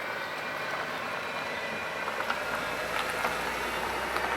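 A motor vehicle's low engine rumble comes in about two seconds in over steady outdoor background noise, with a few faint clicks.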